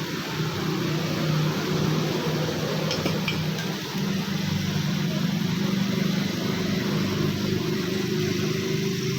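A small motor humming steadily, its pitch shifting slightly about four seconds in, with a few faint ticks around three seconds in.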